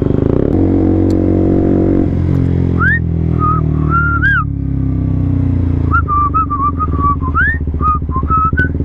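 KTM Duke 125's single-cylinder engine through an Akrapovic exhaust, running steadily and then dropping in revs about two seconds in as the throttle closes. From about three seconds in, someone whistles a short tune over the engine, in two phrases with a gap between them.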